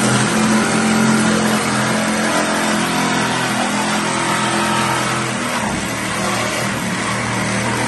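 Handheld power tool fitted with a cutting blade, running steadily at full speed as it cuts into the truck's wheel-well sheet metal.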